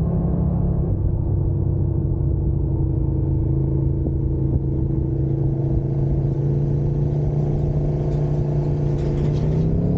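Motorcycle engine running at steady revs while riding, its pitch held nearly level, with a heavy rumble of road and wind noise underneath.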